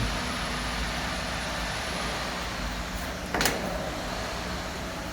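Steady low machine hum and background noise, with a single sharp knock about three and a half seconds in.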